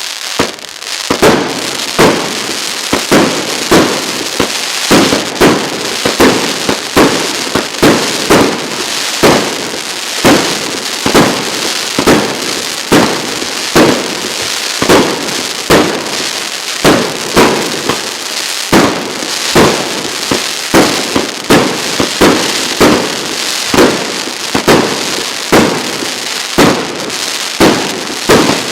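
A 100-shot 'Golden Palms' firework cake of 1.25-inch (32 mm) tubes firing in a steady rapid barrage, about two loud reports a second over a continuous noisy hiss.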